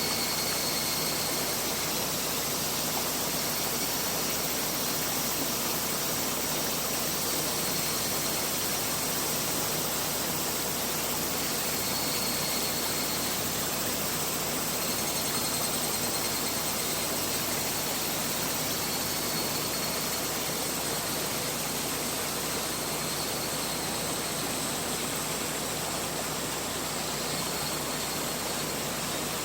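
Mountain river flowing: a steady, even rush of water, with a few faint short high-pitched notes over it now and then.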